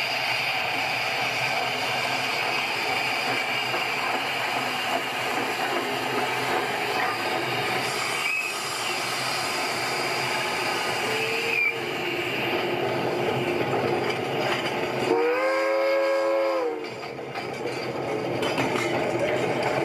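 A train running, with a steady noise throughout. About fifteen seconds in it sounds one chord-like whistle blast lasting about a second and a half.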